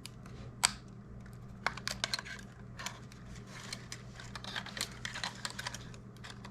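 Curved metal tweezers clicking and scraping against the plastic shell of a DJI Mini 2 drone while prying open its inner clip tabs: a string of irregular small clicks, the sharpest about half a second in.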